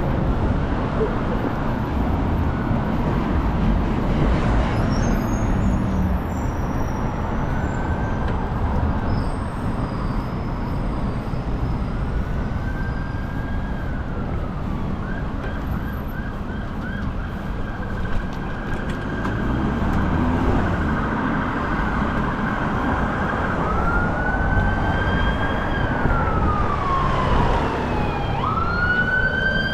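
Emergency vehicle siren wailing over steady road traffic: long tones that rise, hold and fall again, getting louder near the end.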